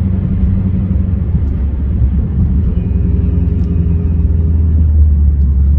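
Car engine and road rumble heard from inside the cabin while driving: a steady low drone that grows slightly louder in the second half.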